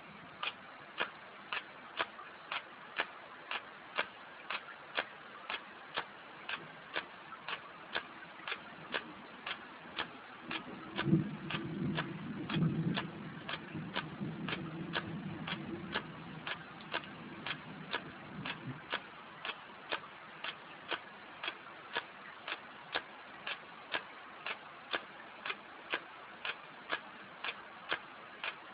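A camera shutter clicking again and again at an even pace, about twice a second, as it fires a timelapse series of one-second exposures. Partway through, a low rumble rises for several seconds with two stronger bursts and then fades, while the clicking goes on.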